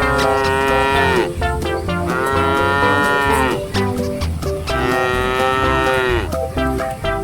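Cow mooing: three long moos, each falling in pitch as it ends, the first already under way at the start.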